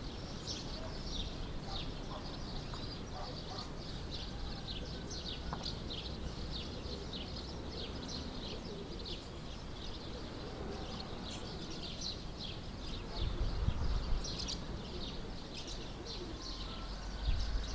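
Small birds chirping rapidly and without a break, several short high chirps a second. Wind rumbles low on the microphone twice in the second half.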